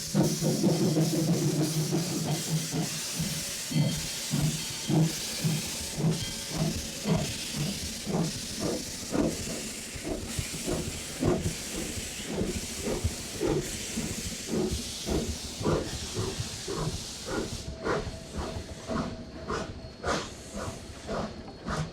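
Steam locomotive pulling slowly past with its cylinder drain cocks open: a loud steady hiss of steam blowing from the cylinders over a rhythmic beat of about two strokes a second. The hiss drops away near the end, leaving the rhythmic beat of the train rolling by.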